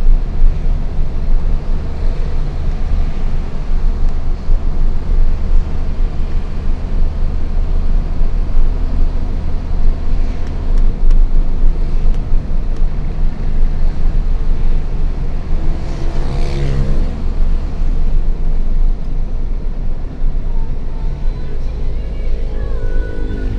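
Diesel engine of a Hino FL 260 JT truck running steadily under a heavy load of coal, a continuous deep drone. A short pitched sound rises and falls briefly about two-thirds of the way through.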